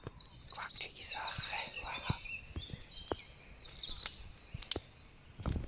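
Small birds chirping and singing in quick, high, looping phrases, with scattered light knocks and a louder low thud near the end.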